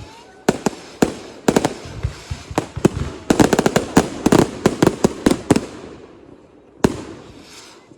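Consumer fireworks going off in a rapid string of sharp bangs, densest around the middle, then thinning out to one last bang near the end.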